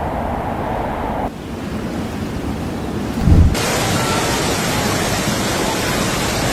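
Steady rushing noise of a violent storm or flood, with a heavy low thump about three seconds in. The noise changes character abruptly twice and becomes wider and hissier for the last three seconds.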